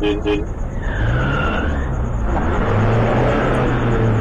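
Motor vehicle engine running; its low drone comes up about a second in and climbs a little in pitch.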